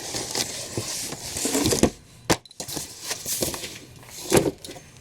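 Packaging being handled: rustling and crinkling of packing material and boxes, with a sharp knock about two seconds in.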